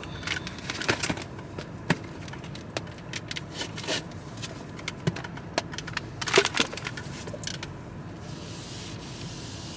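Steering wheel cover being worked off the steering wheel, with scattered clicks, creaks and scraping.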